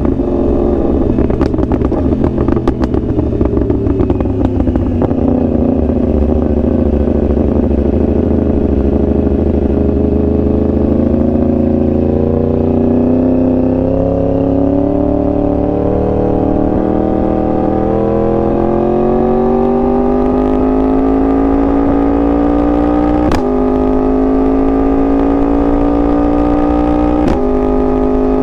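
2021 Yamaha R1's crossplane inline-four engine at speed: the revs fall over the first few seconds, hold low, then climb steadily under throttle. Twice near the end a sharp snap and a small drop in pitch mark quick upshifts before the revs climb again.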